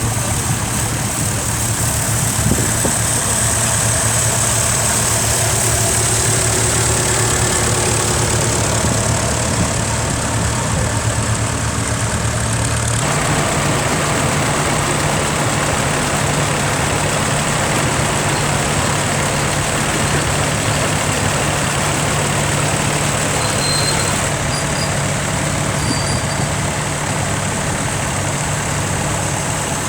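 Vintage tractor engines running steadily. About thirteen seconds in, the steady engine note shifts abruptly to a slightly higher one.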